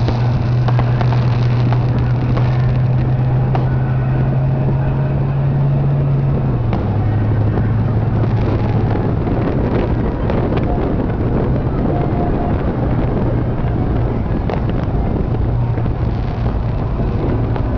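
Dodge Charger's engine running steadily at parade pace, heard from inside the cabin as a loud low drone that drops slightly in pitch about a third of the way in and picks up again near the end.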